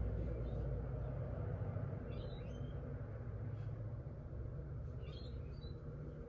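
Outdoor ambience heard through a glass door: a low rumble that slowly fades, with short bird chirps twice, about two seconds in and again around five seconds.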